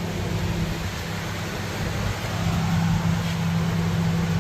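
Walk-in refrigerator's refrigeration unit running: a steady electrical hum with fan noise that grows louder.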